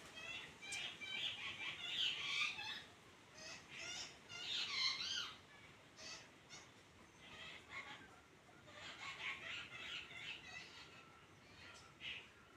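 Birds calling: runs of short, high chattering calls in bursts with brief pauses between them.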